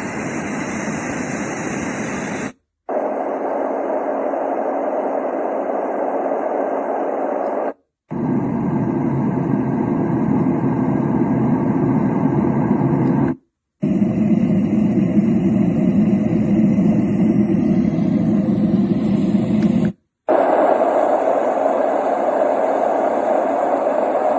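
Yogasleep Duet white-noise machine playing steady noise, switched to a different sound four times with a brief silence at each change. Some settings are brighter and hissier, others deeper.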